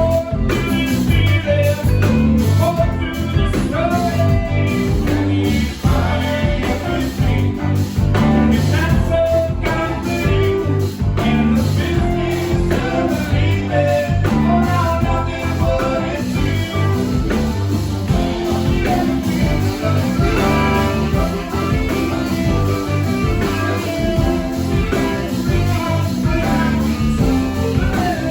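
A live band playing blues-rock with electric guitar, bass and drums, with some singing.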